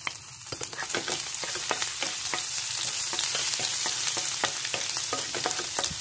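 Chopped ginger and sliced garlic sizzling in hot coconut oil in a nonstick pan, with frequent light clicks of a wooden spatula stirring them. The sizzle builds over the first second, then holds steady.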